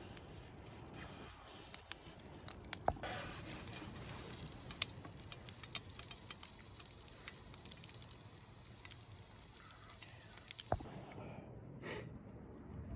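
Wood fire crackling: scattered sharp pops and clicks over a faint, steady hiss.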